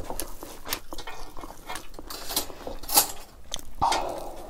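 Close-up mouth sounds of someone eating rice and buff sukuti (dried buffalo meat) by hand: chewing with irregular wet smacks and clicks, several a second.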